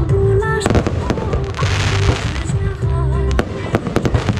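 Aerial fireworks going off in a rapid series of sharp bangs, with a spell of crackling hiss around the middle, over loud background music with a heavy bass beat.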